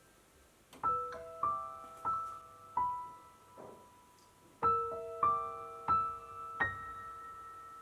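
Soft piano background music: slow single notes and gentle chords, each struck and left to ring out, starting after a brief lull.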